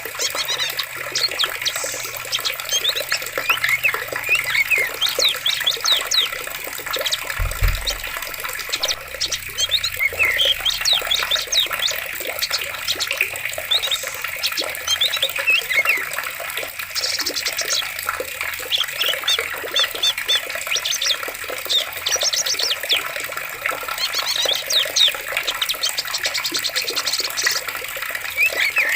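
Running water in a forest, a steady rushing wash, with many birds chirping and trilling over it throughout. A brief low thud comes about seven and a half seconds in.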